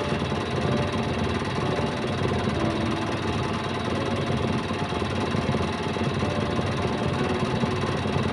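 Truck engine running steadily, with a low even rumble.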